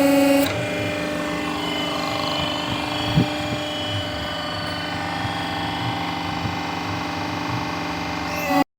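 Hydraulic power unit of a paving-block press running with a steady hum; it gets quieter about half a second in, with a single knock about three seconds in, and cuts off abruptly near the end.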